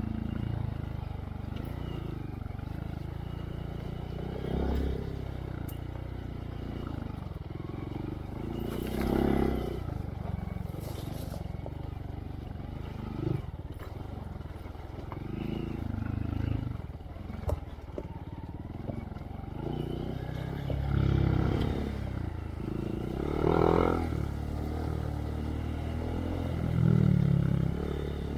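Honda Monkey's single-cylinder engine through a Yoshimura RS3 exhaust, running under way with the throttle opened up in several swells, plus a couple of sharp knocks.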